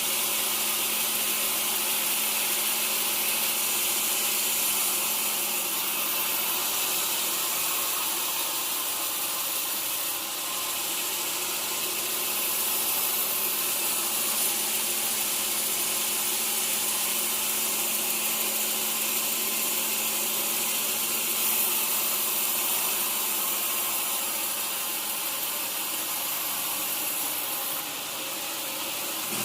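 Sawmill saw cutting through a teak log: a steady high hiss of the blade in the wood over a constant machine hum, dipping briefly about ten seconds in and again near the end.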